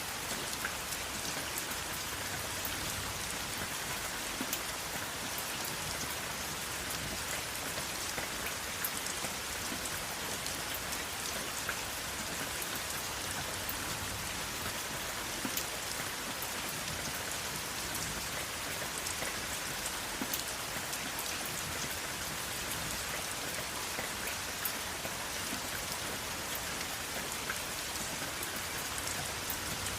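Steady rain falling, an even hiss with many distinct drops ticking on a hard surface.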